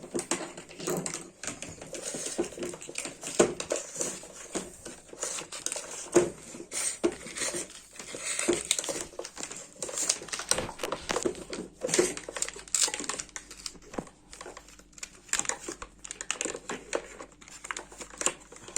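Irregular plastic clicks and rattles from a vacuum cleaner's cord-rewind reel and its spring being handled and wound by hand.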